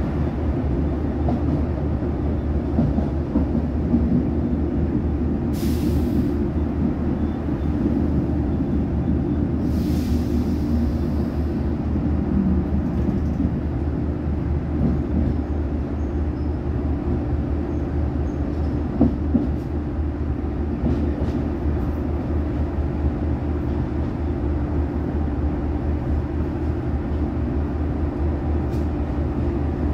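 Inside an Irish Rail diesel railcar on the move: a steady low rumble of engine and wheels, with two brief hisses, one about six seconds in and a longer one around ten seconds.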